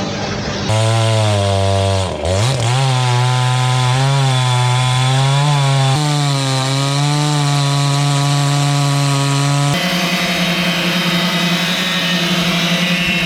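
Chainsaw engine running at high speed while cutting wood. Its pitch drops sharply about two seconds in as it bogs under load, then recovers and wavers. The sound changes abruptly a few times, ending on a steadier, higher engine note.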